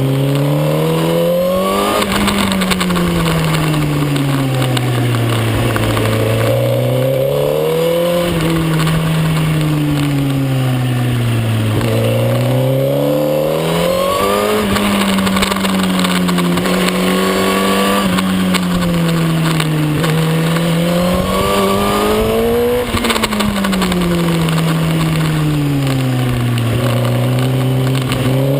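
Suzuki GSX-R1000 K9's inline-four engine heard on board at racing speed, its pitch climbing under acceleration and sinking as it slows, several times over, with a steady rush of wind noise.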